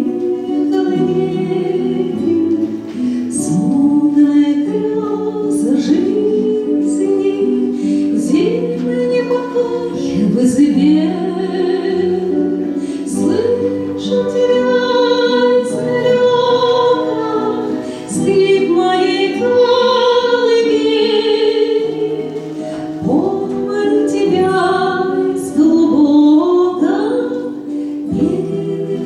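A woman singing a slow song with accompaniment, holding long notes with vibrato and gliding between them.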